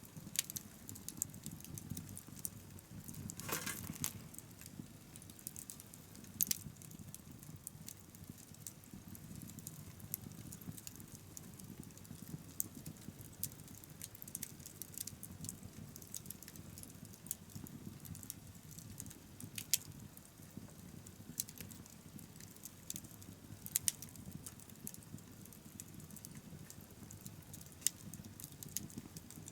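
Wood bonfire crackling, with sharp pops and snaps scattered irregularly over a low steady rumble of flames. A longer, louder burst of crackling comes about three and a half seconds in.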